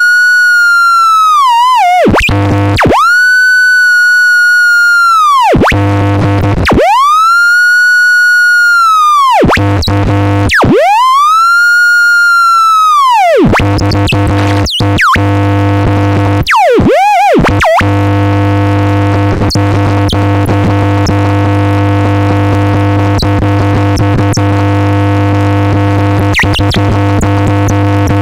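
Dark ambient electronic music: a high, siren-like electronic tone slides up, holds and slides away again, three or four times over. About halfway through, a thick steady drone with a low hum takes over, with a few brief pitch swoops.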